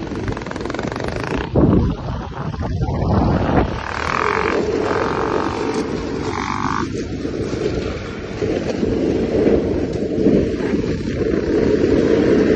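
Engine of a Beta dirt bike converted to a snowbike, running steadily while riding on snow, with wind buffeting the microphone.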